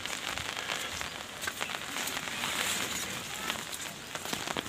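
Rain falling on leaves and wet ground: a steady patter of many small drops.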